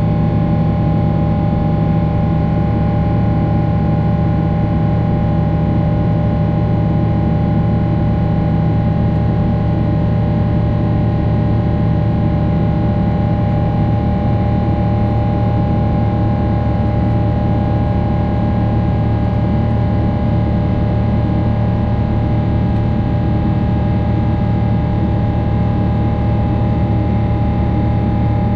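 Boeing 777-300 jet engines heard from inside the passenger cabin: a steady deep rumble and rush with a constant whine layered over it, unchanging throughout.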